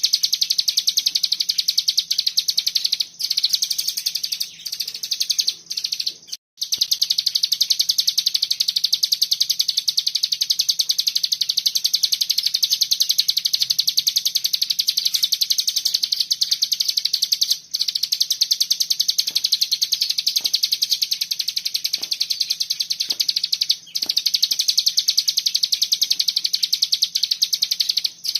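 A cigun songbird's continuous 'bren' song: a very fast, dense, high-pitched rattling trill that runs on with only a few brief breaks, including a short silent dropout about six seconds in.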